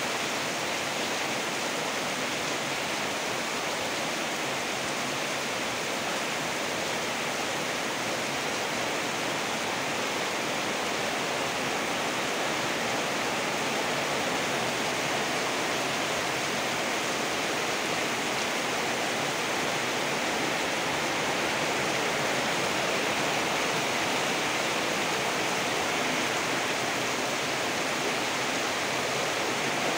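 Heavy tropical rain pouring down, a steady even hiss of falling water that does not let up.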